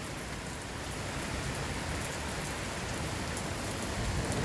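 Heavy rain falling and splashing in a steady hiss, with scattered small drop taps.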